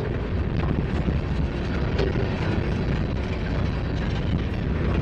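Freight train's covered hopper cars rolling past close by: a steady rumble of steel wheels on rail, with a few short clicks.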